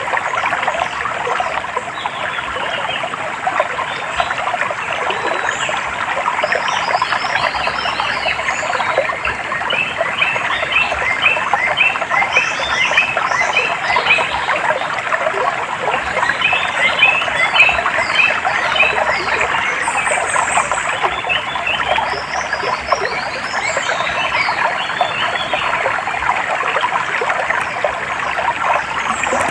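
Running water trickling and splashing, with many birds chirping over it in bursts of quick, high notes.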